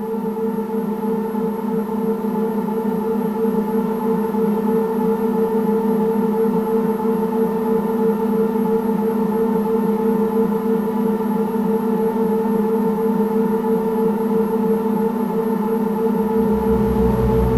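Dark-ambient drone played on a Lyra-8 synthesizer: a steady held chord of several sustained tones that swells a little at first. A deep bass tone comes in near the end.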